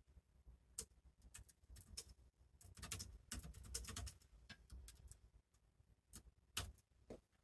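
Faint, irregular light clicks and taps, several a second and sometimes in quick clusters, with a soft low rumble in the middle.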